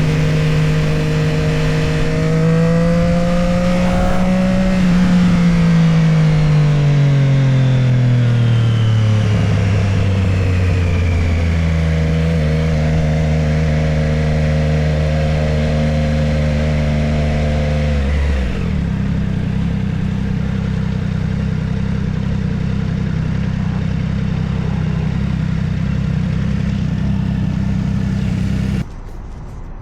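Motorcycle engine running under way. The revs climb for a few seconds, then fall away steadily, and the engine holds a steady pitch for several seconds. It drops to a lower steady note for the rest of the stretch, and the sound cuts off sharply near the end.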